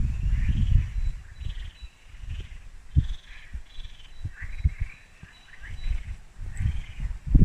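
Forest birds chirping in short, repeated calls. Under them come louder low rumbles and several sharp knocks, the rumbles strongest at the start and near the end.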